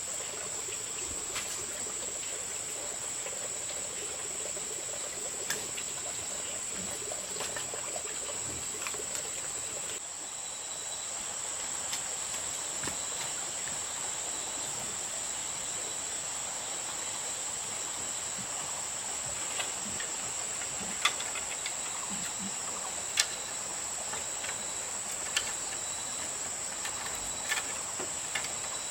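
Steady high-pitched chirring of insects, with a few sharp clicks scattered through it, two of them louder about two-thirds of the way in.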